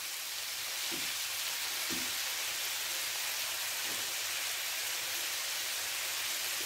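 Chicken pieces frying in oil in a nonstick pan with browned ginger and garlic, a steady sizzling hiss.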